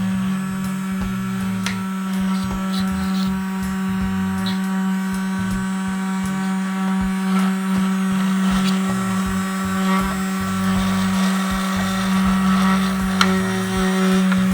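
Toy vacuum cleaner's small electric motor running with a steady hum while it sucks up foam balls, with a few light clicks.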